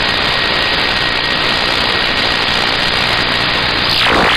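Steady hiss of static from a CB radio receiver on an open channel, with a faint steady whistle through most of it and a brief swelling burst near the end.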